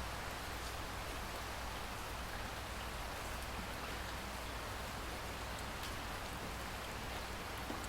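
Steady rainfall: an even hiss with a few faint individual drop ticks.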